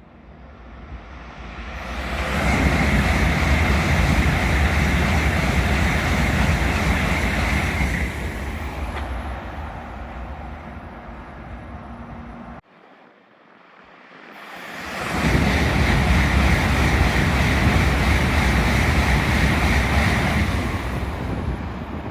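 Shinkansen bullet trains running through a station at full speed without stopping, twice. Each pass is a rush of air and rail noise that builds over a couple of seconds, holds loud for several seconds and then fades. The first pass cuts off suddenly before the second builds.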